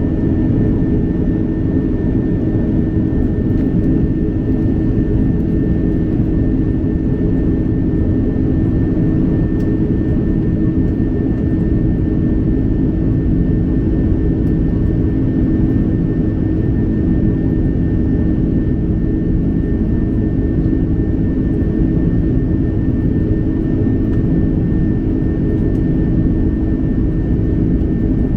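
Airbus A330-200 cabin noise: a steady jet engine and airflow roar heard from inside the cabin, with a constant hum running through it.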